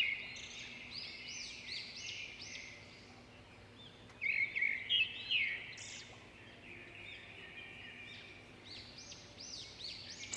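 Birds chirping: many short, quickly rising-and-falling calls, busiest near the start and again about four to five seconds in.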